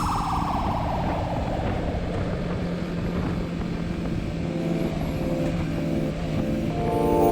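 Motorcycle engine running, its pitch falling over the first few seconds as the bike slows, over a steady low hum. Music with sustained notes comes in during the second half.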